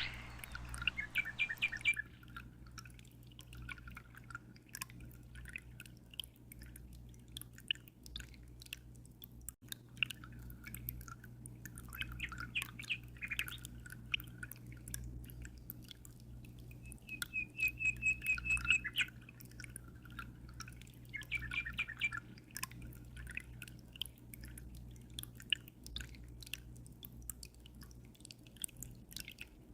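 Small birds chirping in short trilled bouts, loudest about two-thirds of the way through, over a steady low hum and light dripping water.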